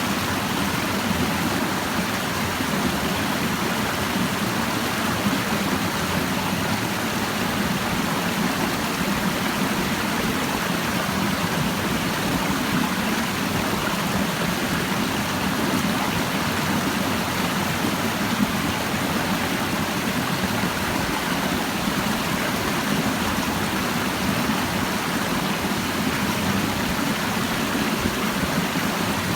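Clear mountain stream babbling over rocks: a steady, even rush of flowing water.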